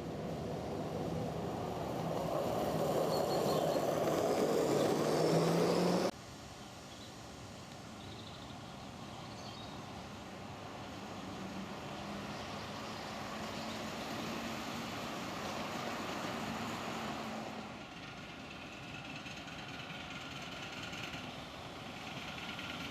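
Miniature railway train running along the track, growing louder for the first six seconds and then cutting off suddenly, followed by a quieter, steady running sound.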